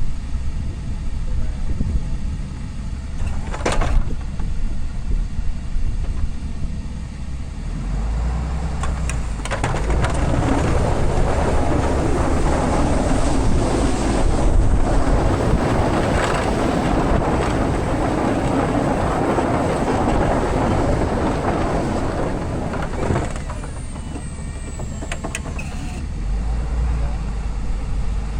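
Pickup truck running, a steady low rumble, with a louder rough, noisy wash for about thirteen seconds in the middle and a sharp click near the start.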